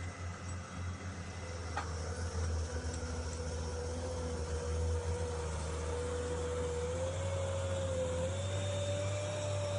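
A vehicle engine running steadily with a low rumble, with a whine over it that rises slightly in pitch about two-thirds of the way in.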